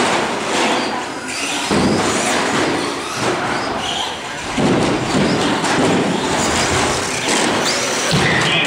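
Radio-controlled short course trucks racing: a steady mix of high motor whine and tyre noise, broken by thuds and knocks, with brief rising and falling whines as the trucks speed up and slow down.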